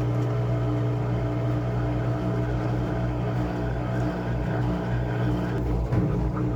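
Washing machine running with a steady motor hum, with a brief bump near the end.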